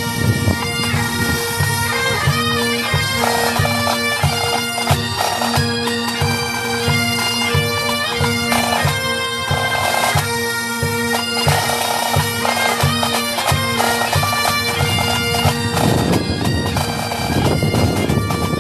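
Pipes and drums playing a march: a bagpipe melody over a steady drone, with a marching drum beat of about two strokes a second. The drone drops out about three-quarters of the way through while the music and drumming carry on.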